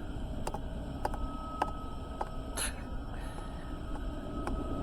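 Low, steady rumble of an approaching Norfolk Southern freight train, with faint regular clicks about twice a second.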